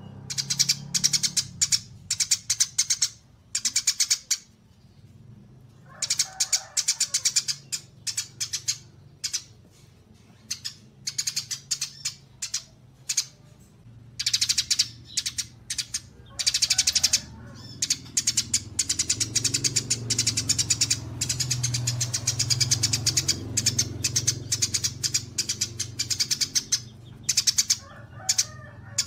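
Songbirds chirping in fast, rapid-fire runs of high notes, broken by brief pauses, over a faint low hum.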